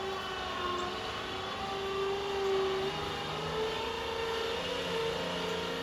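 A motor running steadily with an even hum, its pitch stepping up slightly about halfway through.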